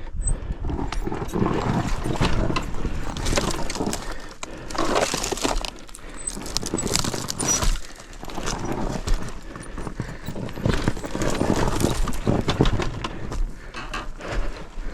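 Loose rocks clattering and crunching in a dense, irregular run of knocks and scrapes, with no clear engine note.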